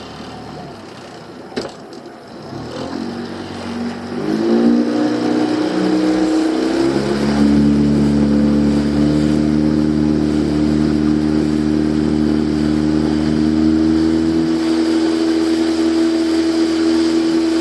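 A small fishing boat's motor is throttled up, its pitch rising over a few seconds, then runs steadily under way. A single knock sounds shortly before it revs up.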